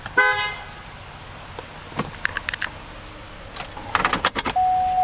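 A short vehicle horn toot, then several sharp clicks, and near the end a steady single-pitched electronic tone begins and keeps sounding.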